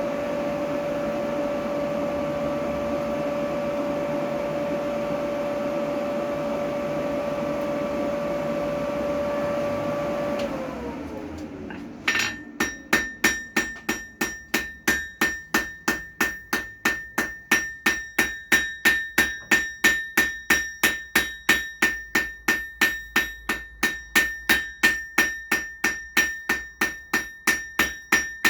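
An electric motor runs with a steady hum, then is switched off about ten seconds in and winds down in pitch. From about twelve seconds on, a hand hammer strikes steel on the anvil in an even rhythm of about two and a half ringing blows a second, forming the end of a 6 mm mild steel S-hook.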